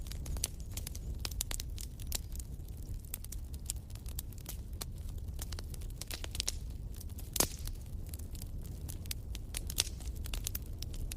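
Wood fire crackling in a fireplace: irregular snaps and pops over a low steady rumble, with a sharp louder pop about seven seconds in and another near ten seconds.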